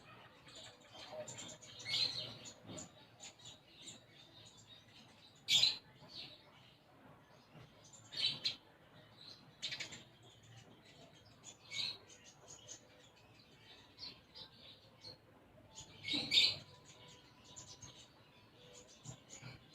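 Konin songbird singing in scattered short bursts of sharp chirps, its song filled with imitations of tree sparrow chirping.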